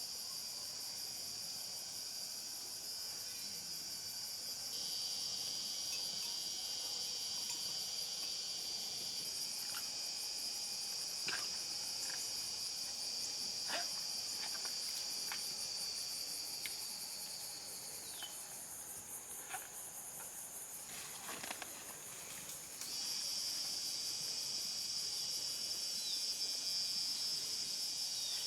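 Steady high-pitched chorus of insects shrilling. It falls away for a few seconds about two-thirds of the way through, then resumes abruptly, with a few faint clicks scattered through the middle.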